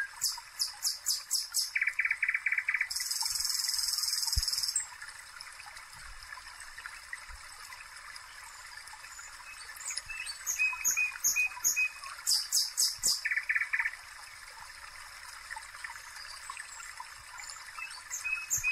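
Small songbirds singing: quick series of high chirps and short trills, a buzzy trill about three seconds in, and more chirping from about ten seconds in.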